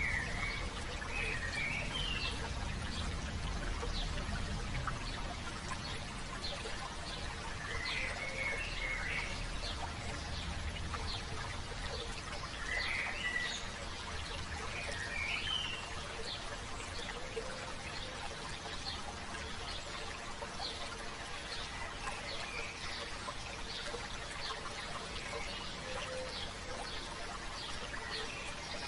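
Steady babble of a stream with birds singing short chirping phrases every few seconds.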